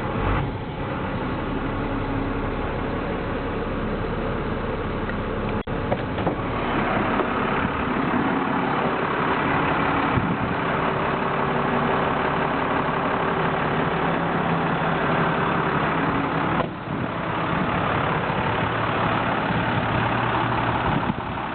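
2005 International fuel truck's diesel engine running steadily, with two brief dips in the sound.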